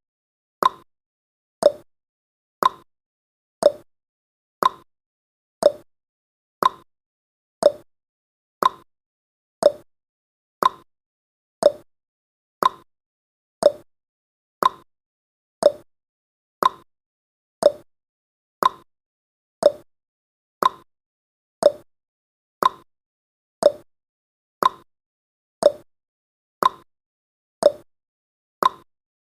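Countdown timer's ticking sound effect: a short, sharp clock-like tick once every second, each dying away quickly.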